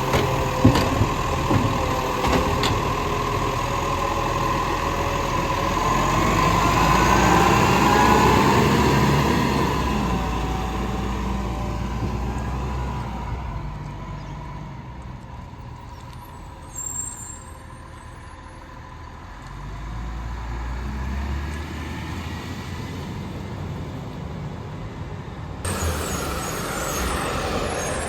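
Garbage truck running, its engine revving up and falling back once, with a few sharp knocks about a second in. The sound changes abruptly a couple of seconds before the end.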